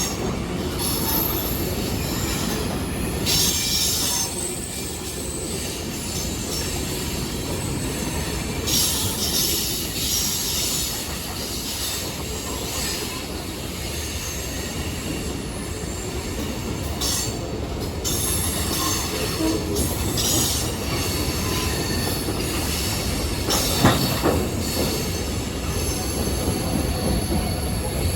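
Train rolling along the rails with a steady rumble, its wheels squealing in high-pitched bursts again and again, and one sharp clank late on.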